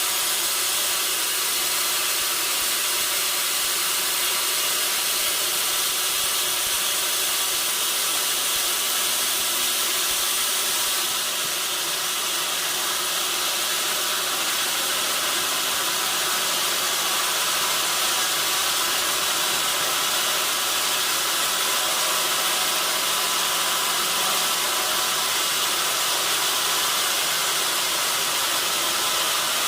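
Sawmill saw running through a log: a steady high hiss of cutting, with a slight drop and change in tone about a third of the way in.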